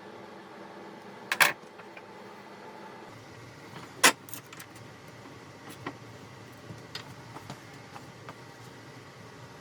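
Workshop handling sounds, with objects set down and moved on a bench: two sharp knocks, about a second and a half and four seconds in, then several lighter clicks, over a faint steady hum that stops about three seconds in.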